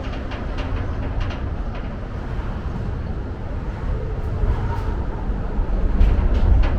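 Outdoor city ambience: a steady low rumble that grows louder near the end, with scattered light ticks.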